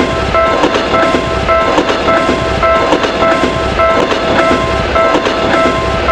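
A train running past a level crossing, its wheels clattering over the rail joints. Over it, the crossing bell rings on in a steady, repeating clang.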